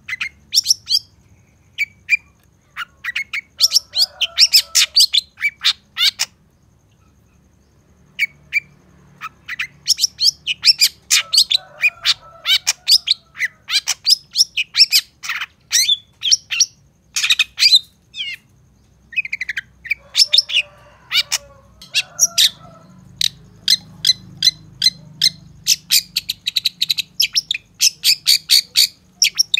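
Long-tailed shrike singing a rapid, varied song of high chirps and trills mixed with harsher rasping notes, broken by a short pause about six seconds in.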